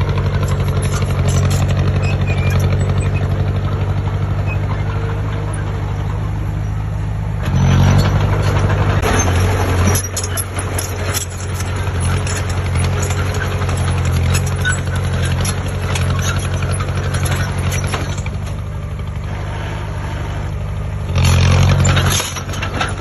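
Heavy diesel engine of earthmoving machinery running steadily, revving up briefly twice, about a third of the way in and again near the end.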